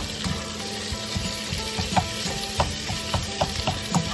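Ground pork with garlic and shallots sizzling in a nonstick frying pan while a plastic slotted spatula stirs and breaks up the meat. Short, irregular knocks and scrapes of the spatula against the pan come every half second or so.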